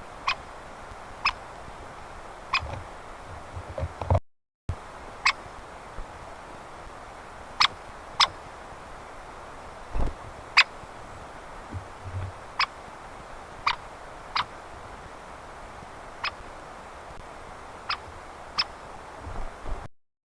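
Woodpecker making sharp, very short clicks at irregular intervals of roughly a second, over a steady outdoor hiss, with a few faint low thuds.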